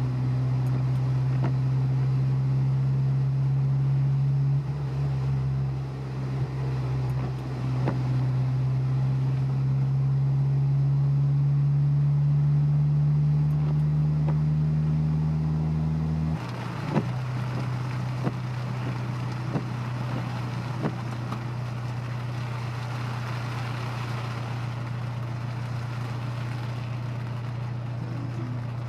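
Honda S2000's four-cylinder engine and tyre noise at a steady cruise, heard from inside the car: a strong drone that climbs slightly, then drops suddenly to a lower, quieter drone about two-thirds of the way through.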